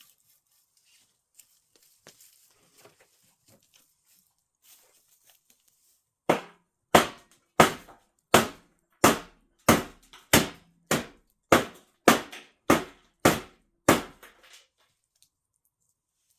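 Wood being chopped: a run of about thirteen sharp, evenly spaced blows, roughly one and a half a second, beginning about six seconds in after a few faint crackles.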